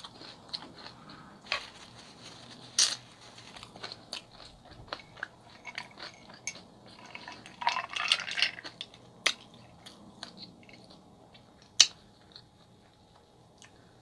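Close-miked chewing and mouth sounds from eating a chicken gyro, with many small sharp clicks. About eight seconds in comes a brief scraping, clinking run as a straw is stirred through ice in a drinking glass, and near the end there is one loud, sharp click.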